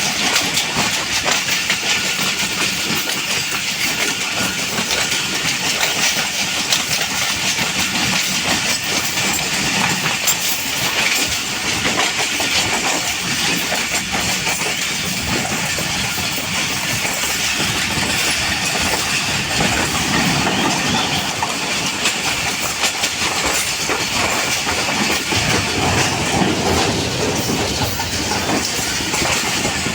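Passenger train running steadily along the track: continuous rumble and hiss with wheels clattering over the rails.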